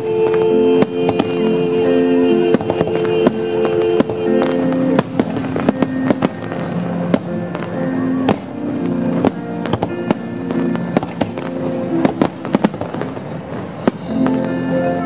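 Fireworks bursting and crackling: a rapid, uneven run of sharp reports that thickens from about five seconds in and again near the end. Under them plays the display's soundtrack music in long held notes.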